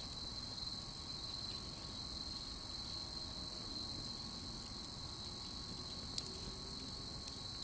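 Crickets chirring steadily, a continuous high trill, with one short click about six seconds in.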